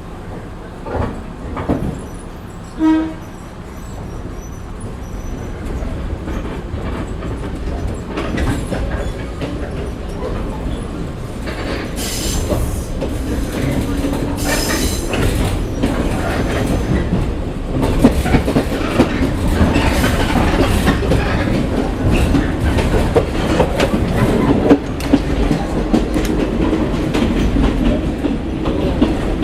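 Onboard running sound of a Chichibu Railway 1000 series electric train (ex-JNR 101 series) pulling away and gathering speed, its running noise building steadily, with wheels clicking over rail joints from about halfway in. A brief pitched tone sounds about three seconds in.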